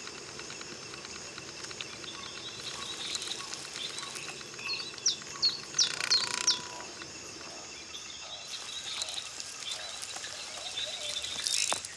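Insects trilling steadily. About five seconds in, four short, sharp chirps that sound like a bird stand out briefly.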